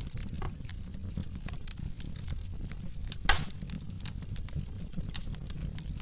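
Wood fire burning in a fireplace: logs crackling with irregular small snaps and one loud pop a little past the middle, over a low steady rumble of the flames.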